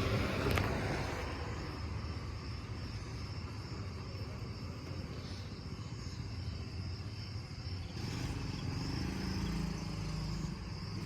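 A motor vehicle engine running with a steady low rumble, a little louder from about eight seconds in.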